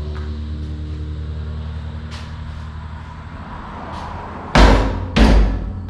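Forklift engine idling with a steady low hum, then two heavy bangs about half a second apart near the end.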